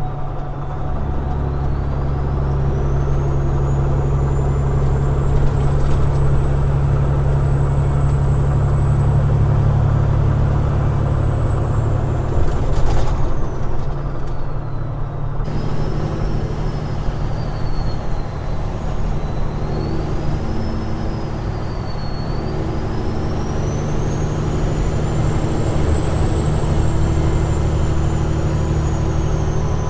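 Peterbilt 389 glider's diesel engine running steadily as the truck drives on the highway, a deep even drone, with a faint high whine that slowly rises and falls. A short sharp click about 13 seconds in.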